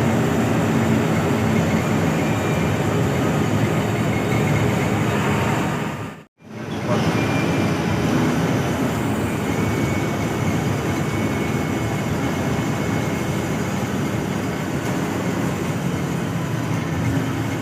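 Hino AK8 front-engined bus driving, a steady run of engine and road noise. The sound briefly fades out and back in about six seconds in.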